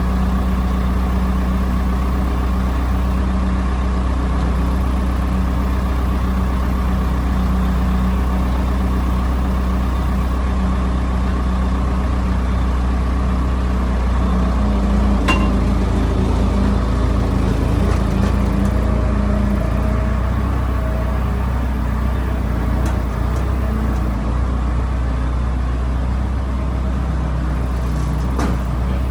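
Tractor engine running steadily at low speed, with a single sharp click about halfway through.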